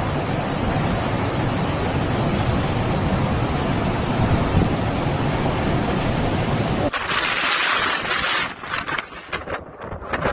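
Cyclone wind blasting the microphone in a dense, steady rush along with heavy rain. About two-thirds of the way in it cuts off abruptly to a brief hiss, then fainter scattered crackles.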